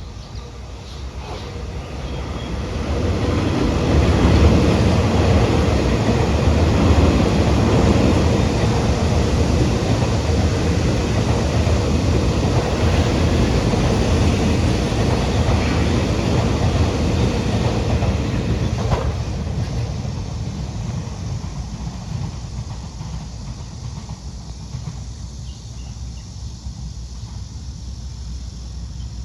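Taiwan Railway electric multiple-unit trains passing at speed: the sound builds over the first few seconds, stays loud for about fifteen seconds, then fades away.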